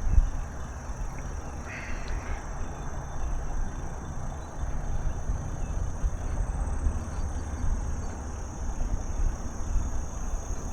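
Wind buffeting the microphone and tyre rumble from a bicycle riding along a trail, with insects droning steadily at a high pitch. A short call, possibly a bird's, sounds about two seconds in.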